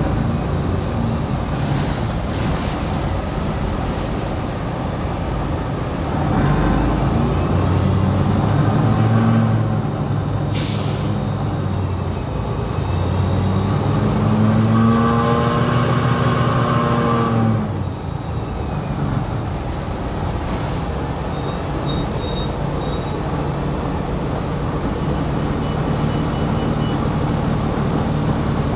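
Articulated New Flyer XD60 diesel bus heard from on board, its engine running steadily, with a pitched whine that rises and falls twice as the bus speeds up and slows. A short sharp hiss of air about ten seconds in.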